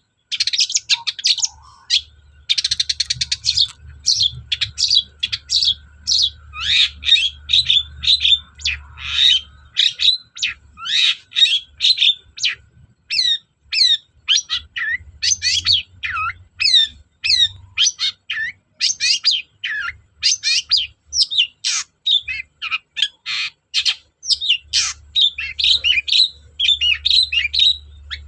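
Long-tailed shrike (cendet) in full song: a fast, unbroken stream of varied chirps, trills and short buzzy notes.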